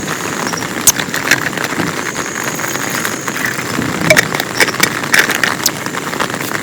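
Heavy rain falling steadily, with many sharp ticks of single drops striking close by, the loudest about a second in and again around four to five seconds in.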